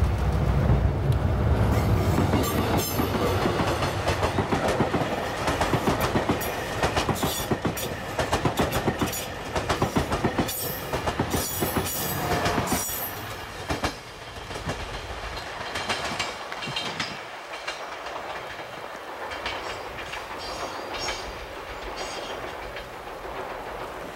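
A diesel passenger train passing close: a heavy low rumble as the front goes by, then a long run of rapid clicks as the wheels cross the rail joints. The sound drops about fourteen seconds in and fades as the train moves away.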